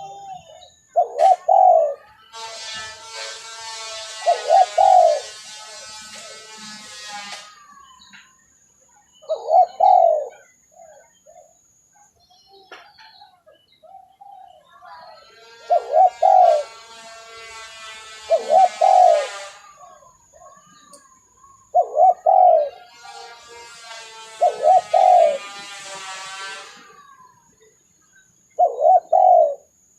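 Spotted doves (tekukur) cooing on a recorded lure call: short, low coo phrases repeated every few seconds. Three times, a long, higher buzzy trill sounds between the coos.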